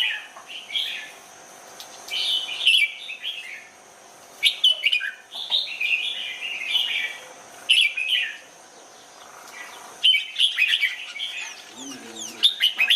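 Red-whiskered bulbul singing a master song of the kind played to train caged bulbuls: short, quick warbled phrases, about seven of them, coming every second or two.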